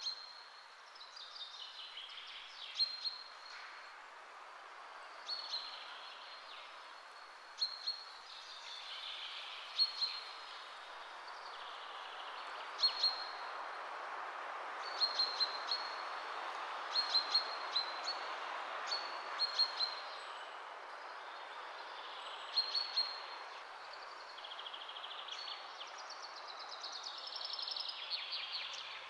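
Small birds chirping in short, sharp, high notes every second or two, some sweeping downward, over a steady background hiss.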